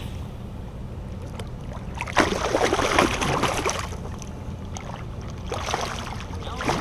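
A hooked striped bass splashing and thrashing at the water's surface beside a kayak, in two bursts, the first the louder, over a steady low rumble of wind and water.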